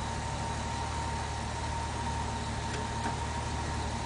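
International Harvester Green Diamond 214 cubic-inch flathead six idling steadily, still cold, with a thin steady whine above it.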